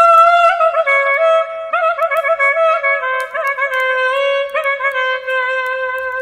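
Clarinet playing a slow, ornamented melody: a held note steps down about a second in, quick turns and grace notes follow, then a long lower note is held with small trills near the end.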